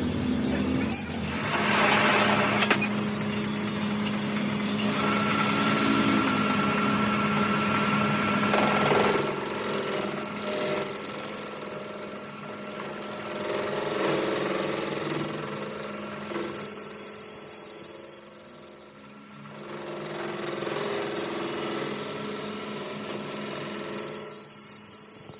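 A workshop machine or power tool runs with a steady hum, with a few sharp clicks about a second in and stretches of high-pitched squealing in the second half.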